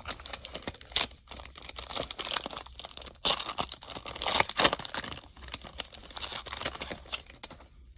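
Baseball trading cards being handled and flipped through from a freshly opened Topps pack, a run of quick crinkling, rustling and snapping that stops shortly before the end.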